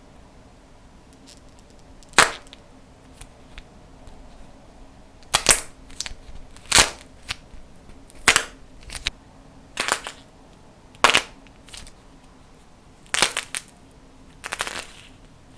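Clay-coated slime being pressed and cracked, giving about nine sharp, loud snaps spaced a second or two apart, some in quick little clusters.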